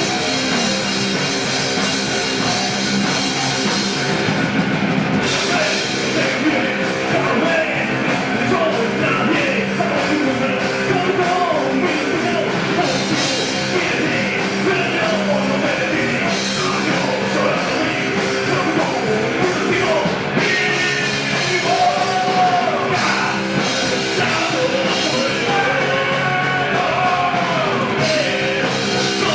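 Rock band playing a song, with a singing voice over it.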